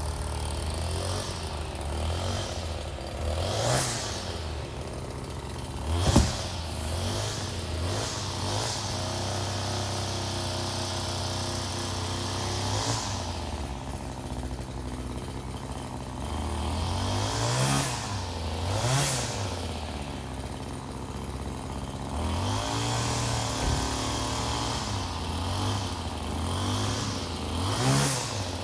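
Small two-stroke engine idling, with the throttle blipped repeatedly so that it revs up and drops back, and a sharp knock about six seconds in.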